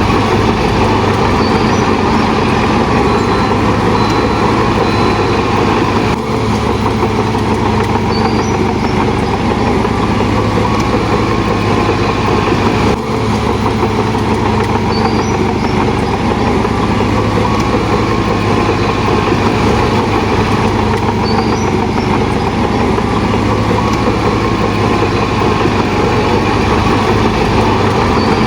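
Shantui DH17 bulldozer's heavy diesel engine running steadily and loudly as the machine works.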